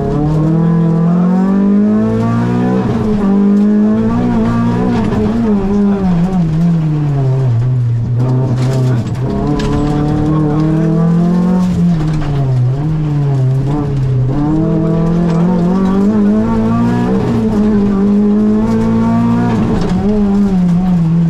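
Renault Clio rally car's engine heard from inside the cabin, driven hard. Its revs climb and drop over and over, about every two to three seconds, as the driver accelerates, shifts and lifts for corners.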